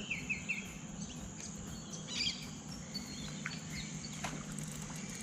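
Outdoor background of a steady high insect drone with a few short bird chirps, near the start and about two seconds in, over a low steady hum.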